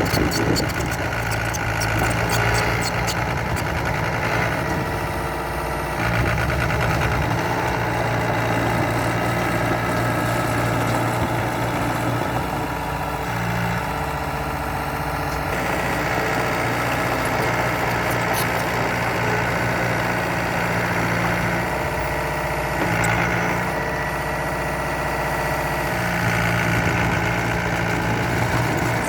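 Diesel engine of heavy earthmoving machinery running steadily, its note and load shifting several times.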